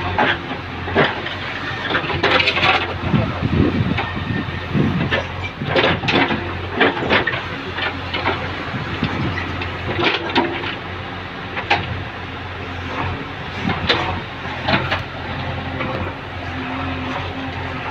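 Backhoe excavator digging: its diesel engine runs with a steady low hum while the bucket knocks and scrapes against soil and broken rubble, with frequent sharp clatters.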